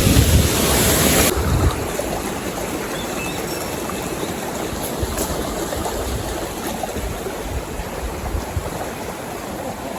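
Small mountain stream rushing steadily over rocks. Wind buffets the microphone for the first second or so, then the sound drops abruptly to the steady, quieter rush of the water.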